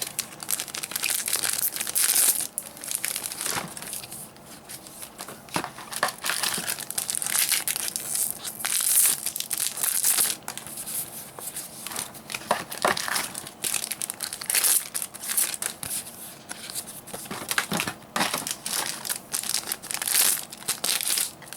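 Foil trading-card booster pack wrappers being torn open and crinkled, one pack after another, in irregular bursts of crackling.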